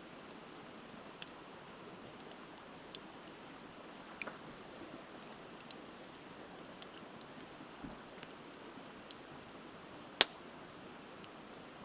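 Wood campfire crackling, with scattered small snaps and one loud pop about ten seconds in, over the steady rush of a river.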